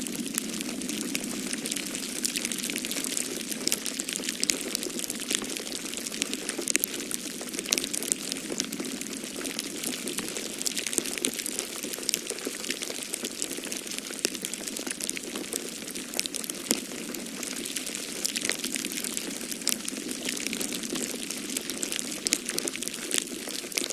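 Wood fire crackling in a fireplace: a dense, irregular stream of small pops and snaps over a steady rush of blizzard wind.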